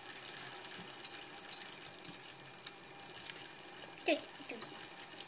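Motorised Meccano helicopter model running, its metal parts giving light, irregular clicks and ticks, a few every second. A short vocal sound about four seconds in.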